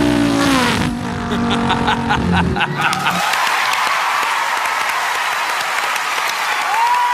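A man's vocal impression of a car engine, its pitch falling, cuts off about two and a half seconds in as audience applause breaks out and carries on. Near the end a held musical note comes in over the applause.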